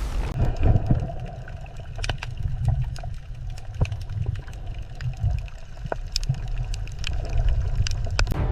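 Underwater ambience: a steady low rumble of water with scattered sharp clicks and pops.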